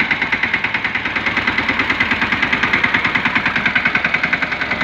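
Swaraj 717 mini tractor's single-cylinder diesel engine running with a steady, fast chug of about eight beats a second.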